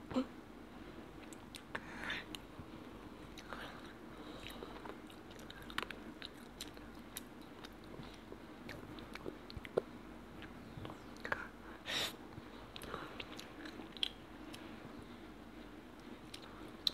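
A child chewing chicken close to a clip-on microphone: soft, scattered wet mouth clicks and smacks, over a faint steady hum.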